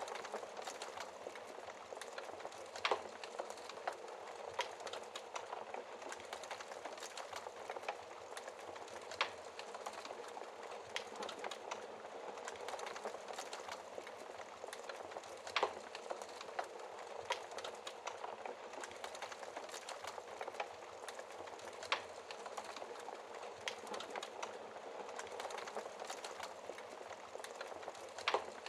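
Wood fire crackling in a fireplace: a steady hiss of burning, scattered with small crackles and a louder sharp pop every several seconds.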